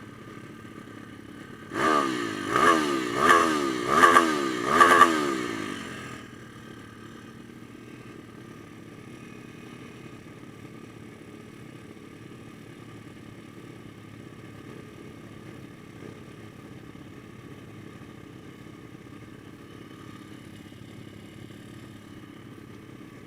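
Pit bike's single-cylinder engine blipped through about five quick revs, each rising and falling in pitch, then dropping back to a steady idle.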